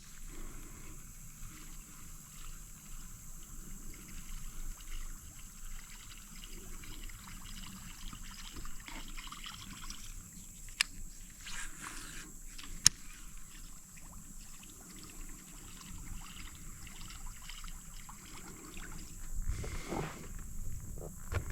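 Water trickling and lapping at a small fishing boat, with a steady high-pitched hum throughout and two sharp clicks about two seconds apart near the middle.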